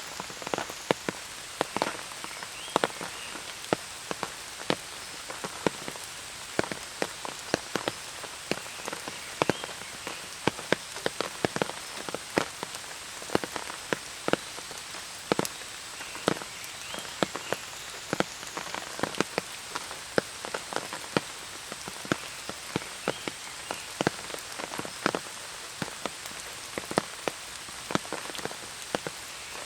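Steady rain, with frequent loud drops striking close by at irregular intervals.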